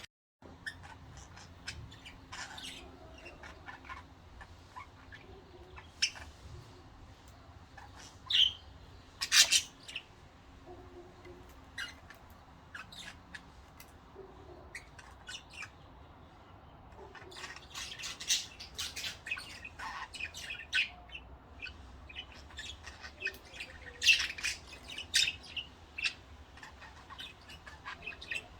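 Pet budgerigars chirping and squawking in short, irregular calls, with busier clusters of louder calls about eight to ten seconds in, around eighteen seconds and around twenty-five seconds.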